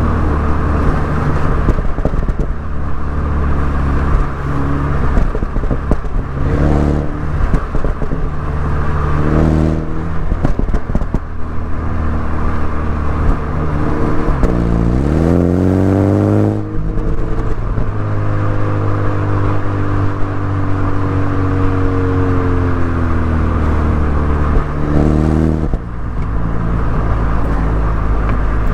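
MINI Cooper S engine and exhaust under way, the pitch climbing and falling with the throttle. A steep rise in revs about two-thirds of the way through breaks off suddenly at a gear change, then the revs sink slowly as the car slows.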